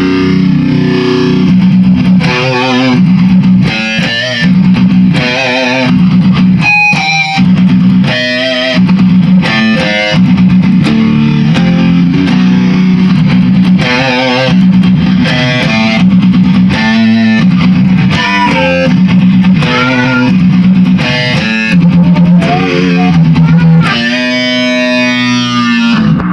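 Electric guitar played through distortion and effects: a repeated low note under short melodic phrases with wavering vibrato, ending on a long held note with vibrato near the end.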